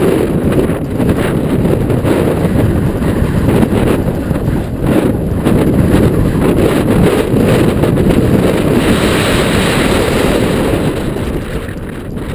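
Strong wind buffeting the camera microphone as a loud low rumble, with frequent short clatters from the mountain bike rolling over rough trail; the rumble eases slightly near the end.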